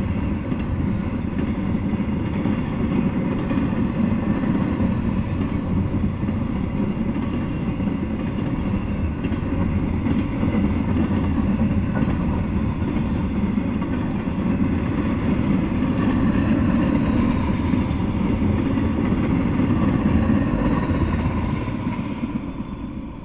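Intermodal freight train's container well cars rolling past on the rails: a steady clatter and rumble of steel wheels on track that fades away near the end as the last car goes by.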